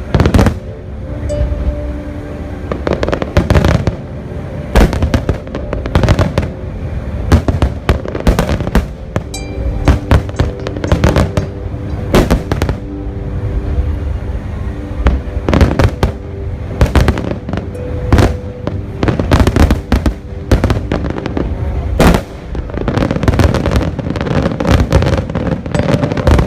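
Aerial fireworks shells bursting in rapid, irregular succession, loud booms with echoing rumble and a patch of crackling about nine seconds in. Music with long held notes plays underneath.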